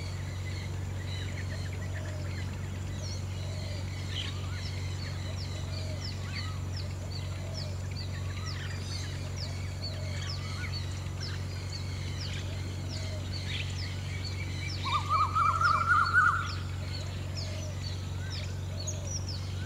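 Birds calling over a steady low background hum: quick high falling chirps keep coming throughout, and about three-quarters of the way in a louder rapid run of notes lasts about a second and a half.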